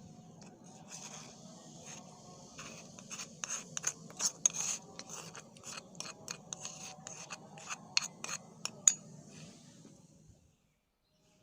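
A kitchen utensil scraping and clicking against a dish, with a string of sharp clicks and scrapes that stops shortly before the end.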